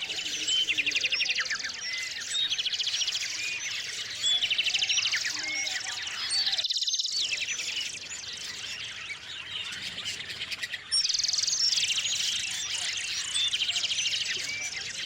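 Small songbirds singing and chirping: high trilled phrases mixed with short rising chirps, one phrase every second or two.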